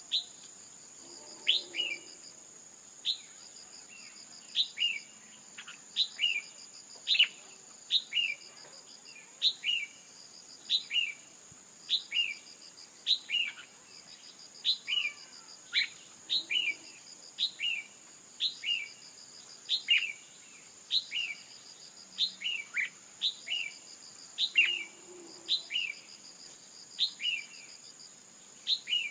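Female red-whiskered bulbul calling: short, sharp downward-sweeping notes, mostly in pairs, repeated about once a second. It is the kind of female call used to provoke male bulbuls into singing. A steady high insect trill runs underneath.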